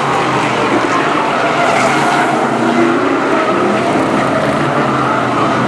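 A pack of BriSCA F1 stock cars racing, their V8 engines running hard together as a steady, layered engine note that wavers up and down.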